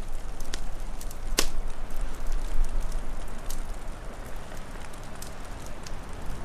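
Wood fire crackling: irregular sharp pops over a steady hiss and low rumble, with one loud snap about a second and a half in.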